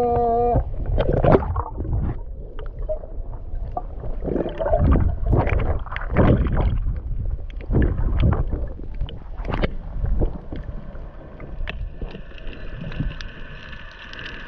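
Water splashing and gurgling in irregular bursts, with a steady hum coming in near the end.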